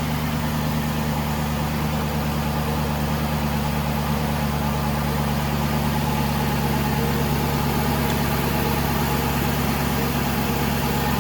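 A 2012 Aston Martin V8 Vantage's V8 engine idling steadily from cold, whisper quiet and smooth-running.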